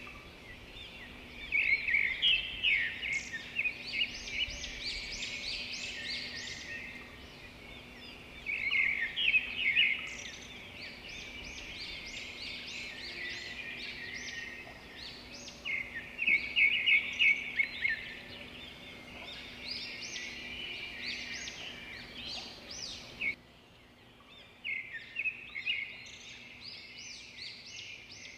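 Common chaffinch singing: short, fast rattling song phrases repeated every several seconds, with other small birds chirping underneath. Near the end the singing gives way to fainter chirps.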